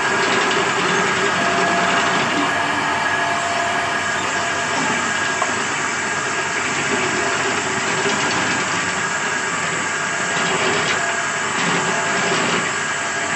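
Motor-driven belt sanding machine for round wooden poles, running steadily.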